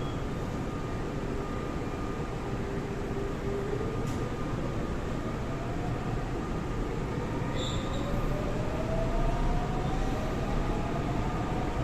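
Seoul Line 4 VVVF 4000-series electric train with its Daewoo/Alstom GTO inverter drive, pulling away and accelerating. The inverter and motor whine holds one note, then climbs steadily in pitch from about three seconds in, over rail and wheel running noise that grows louder.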